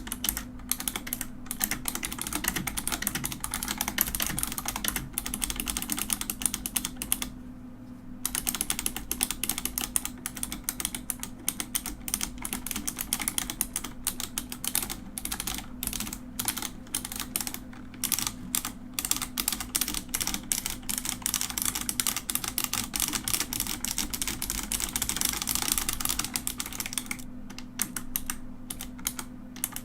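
Mechanical keyboard being typed on quickly: a dense run of clicking keystrokes with a brief pause about seven seconds in and sparser keystrokes near the end. A faint steady low hum sits underneath.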